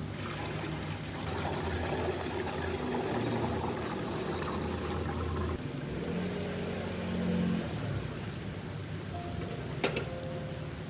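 Liquid pouring and trickling, a steady watery rush that changes character about halfway through, with a single sharp click near the end.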